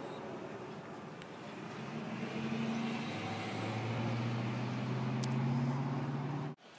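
Road vehicle noise: a steady low engine hum over a rushing background grows louder, then cuts off suddenly near the end.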